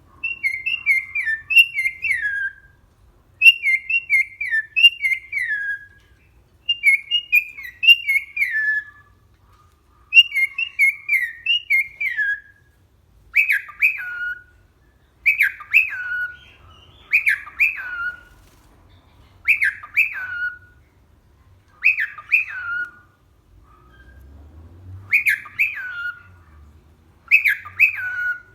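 Cockatiel whistling its song. It starts with phrases of quick, falling whistled notes, and from about halfway it switches to a short two-note whistle that drops in pitch and repeats about every two seconds.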